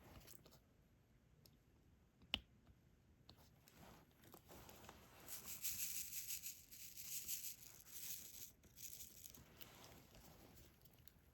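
Faint crackling and tearing of thin plastic, as the protective film is peeled back from a diamond painting canvas's adhesive, lasting about five seconds from midway in. A single sharp click comes about two seconds in.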